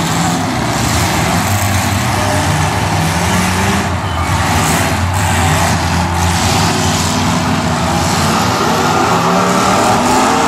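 Several demolition derby cars' engines revving loudly together as the cars reverse and ram one another, pitch rising and falling unevenly; one engine climbs in pitch near the end.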